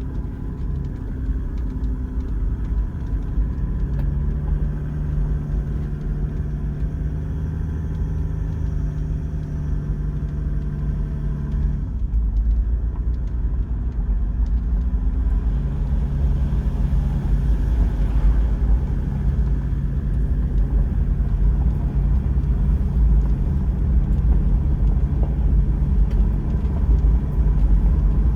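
Toyota Land Cruiser 100 Series 4.2-litre straight-six turbo diesel running under way, with a steady engine drone over low road rumble. About twelve seconds in the engine note drops away, then picks up again a few seconds later, as at a gear change or lift-off.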